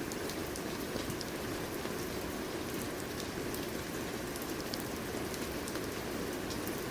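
Steady rain, a dense even hiss with many small drop ticks on top.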